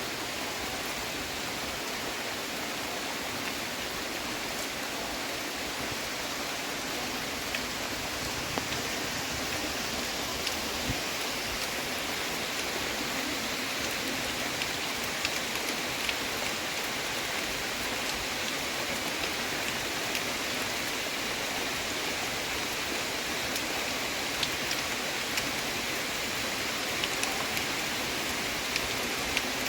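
Heavy rain falling steadily as a dense, even hiss, with scattered sharp ticks of single drops that come more often from about seven seconds in.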